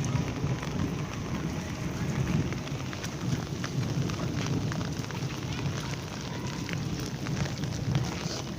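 Monsoon rain falling steadily, many small drop impacts over a continuous hiss, with a steady low rumble underneath.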